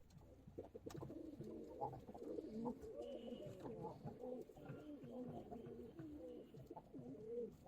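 Several pigeons cooing at once, their low, wavering coos overlapping continuously, with one sharp click about a second in.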